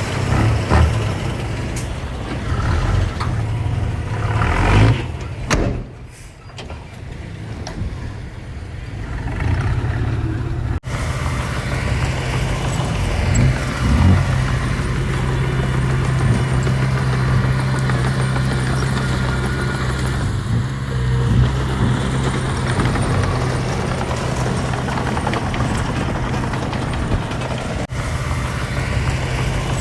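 Diesel engine of heavy earthmoving machinery running steadily at a low hum. The sound dips for a few seconds and then picks up again.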